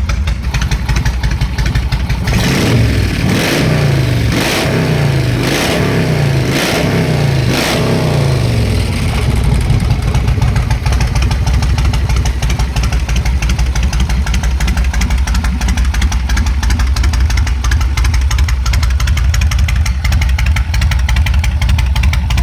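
Yamaha Road Star 1700's carbureted pushrod V-twin idling, blipped through about six quick revs roughly a second apart, each rising and falling back, then settling into a steady idle.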